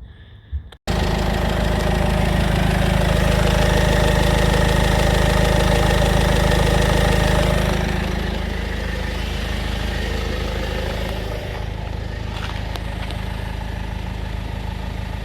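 Citroën C4 Grand Picasso engine running with a new auxiliary belt tensioner and belt fitted. It comes in abruptly about a second in, runs louder for several seconds, then settles to a slightly quieter, steady idle about eight seconds in. The earlier rattle is gone, which the owner puts down to the new tensioner.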